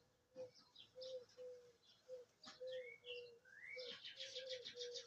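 Small birds chirping faintly, with two rising whistled notes in the middle and a rapid trill near the end.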